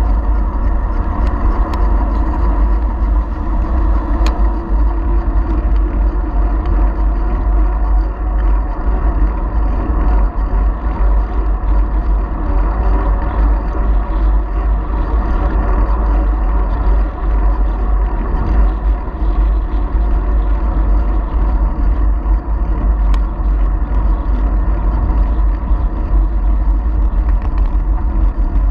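Wind buffeting the microphone of a GoPro mounted on a moving bicycle, a heavy steady rumble, with a steady whirring hum from the ride over it.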